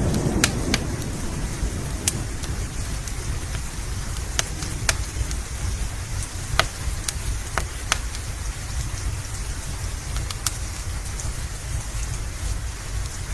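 Steady rain mixed with a crackling wood fire, its sharp pops scattered about once a second. The last of a thunder rumble dies away in the first second.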